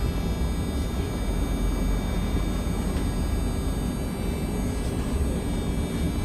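Steady low rumble of a car's engine and road noise while driving.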